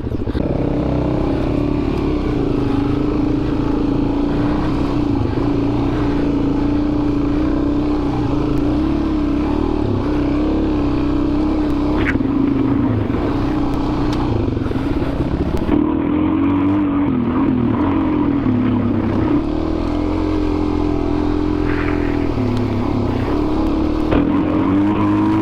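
Dual-sport motorcycle engine running steadily under way on a dirt trail, its pitch rising and falling slightly with the throttle.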